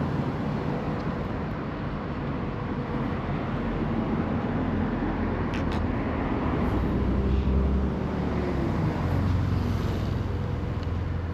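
Road traffic rumble, with a motor vehicle's engine note falling slowly in pitch as it goes by in the second half.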